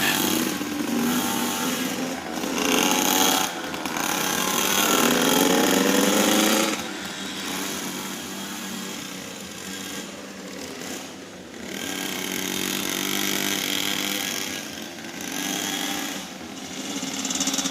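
Motorcycle engine running, its pitch rising and falling as the throttle is worked. It is loudest for the first several seconds, then drops back before swelling again.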